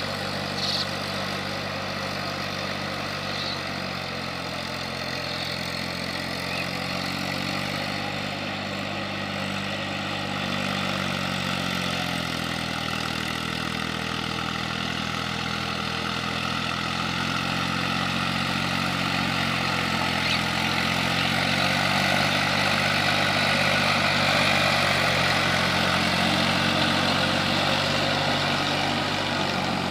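Eicher 480 tractor's diesel engine running steadily, its speed sagging and picking up slowly a few times and getting a little louder past the middle.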